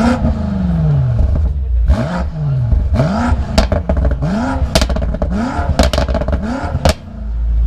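BMW 4.4-litre twin-turbo V8 being revved at a standstill: one long rev falling away at the start, then about six quick throttle blips, with sharp exhaust pops and crackles between them. A loud low rumble comes in near the end.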